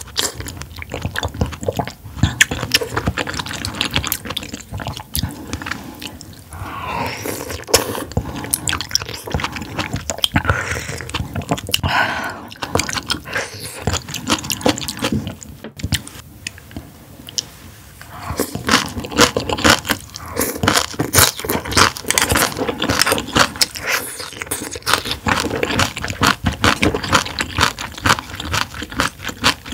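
A person eating into a close microphone: wet chewing and mouth clicks. The clicks come thicker and faster in the last third.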